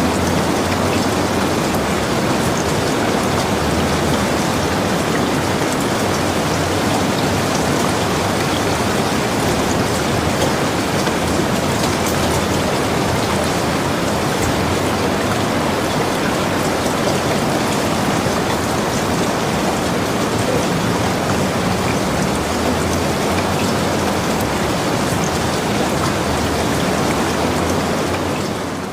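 Steady rain falling: an even hiss of dense droplet patter, dipping in level right at the end.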